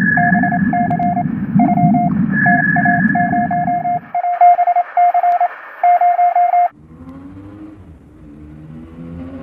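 Morse code heard over a radio receiver: a single beeping tone keyed in dots and dashes, with a higher whistling tone and hiss, and a low wavering hum under it for the first four seconds. The Morse cuts off about two-thirds of the way in, and a low engine sound takes over.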